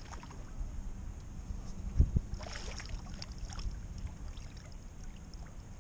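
Handling noises in a plastic kayak while a just-caught bass is brought in: one dull thump against the hull about two seconds in, then scraping, rustling and a few light clicks, over a steady low rumble.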